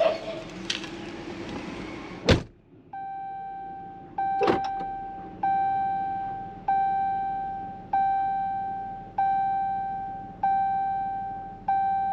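A car door shuts about two seconds in, cutting off the outside noise, and a second click follows a couple of seconds later. A car's warning chime then dings at one steady pitch, about once every 1.2 seconds, eight times.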